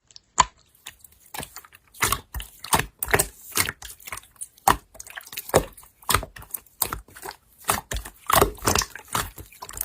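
Slime being squished and poked by hand, giving irregular sticky clicks and pops, about two to three a second.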